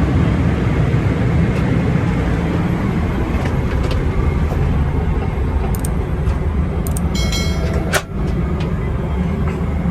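Steady, loud rumble of airliner cabin noise in a Boeing 777-300ER in cruise. About seven seconds in there is a brief ringing tone, ending in a sharp click a second later.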